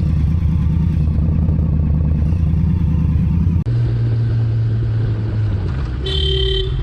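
Motorcycle engine running steadily, heard from the bike. About three and a half seconds in, the sound cuts abruptly to another engine at a steadier, lower pitch. Near the end a vehicle horn gives a short honk of about half a second.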